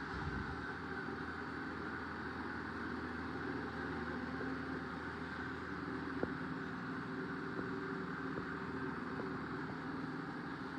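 Shark PowerDetect robot vacuum running steadily, its suction motor and brushes giving an even hum and hiss. A single sharp click comes a little past the middle.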